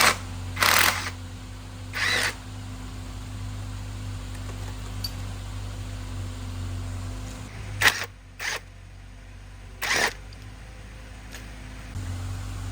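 A steady low machine hum with six short, sharp bursts of noise, each under half a second: three near the start and three between about eight and ten seconds in. The hum drops away for the last few seconds, then returns.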